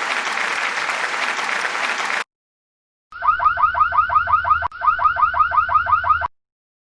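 Edited intro sound effects: a couple of seconds of applause-like cheering noise that cuts off sharply, then a rapid electronic alarm-like chirping, about seven falling chirps a second, in two runs of about a second and a half each.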